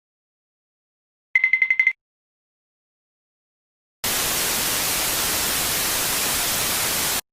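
A brief, fast-pulsing electronic beep about a second and a half in, then about three seconds of steady white-noise static hiss that starts and cuts off abruptly.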